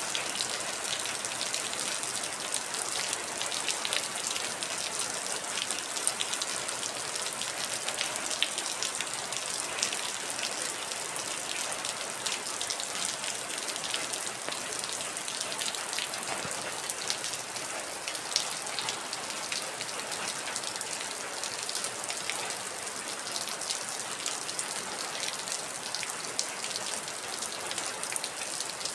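Heavy rain falling steadily: a dense, even wash of drops with many separate drop ticks and no thunder.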